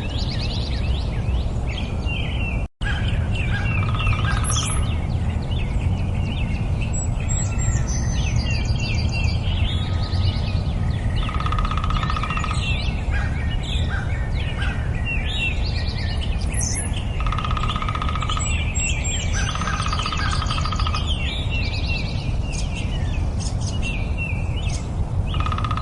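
Songbirds singing in a dense chorus, presented as nightingale song: rapid chirps, whistles and trills overlap, and a lower pulsed trill about a second long recurs several times. A steady low rumble runs underneath, and the sound drops out for an instant about three seconds in.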